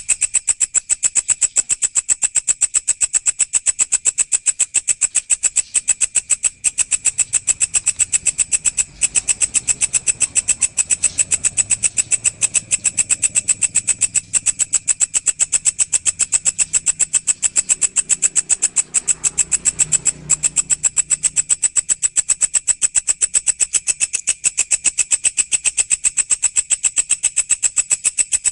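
A walang, a singing grasshopper-type insect, stridulating in a steady, rapid train of sharp, high chirps, about six a second, with a faint low rumble underneath in the middle.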